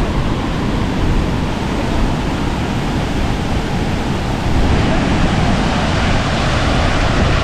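Waterfall rushing: a loud, steady wash of falling water, growing slightly louder a little past halfway.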